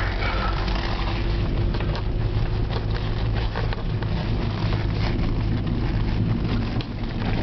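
Steady low rumble of a car driving slowly, heard from inside the cabin, with many small clicks and crackles over it.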